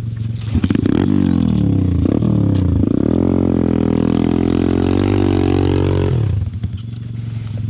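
Pit bike's small single-cylinder engine idling, then revved hard from about half a second in, holding a high, wavering note for several seconds while the bike fails to climb, before dropping back to idle. The riders put the lack of pull down to the tank running nearly empty.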